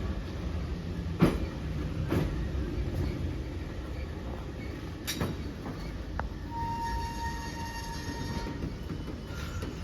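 Soviet-built 81-717/714 metro train slowing into a station: a low running rumble with a few sharp clacks of the wheels over rail joints, then a steady high squeal for about two seconds as it brakes.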